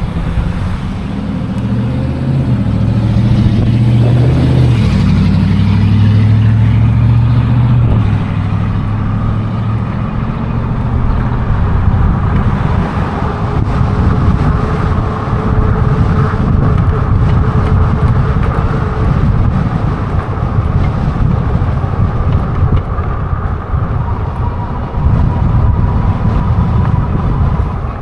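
Road traffic heard from a moving e-bike: a motor vehicle passes close in the first several seconds, loudest about five seconds in, over a steady rumble of road and wind noise.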